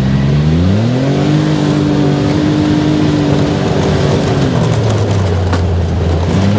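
Off-road buggy's engine revving up over about a second, holding high revs for a couple of seconds, then dropping back to a lower steady drone as the buggy bounces over wet, rough ground.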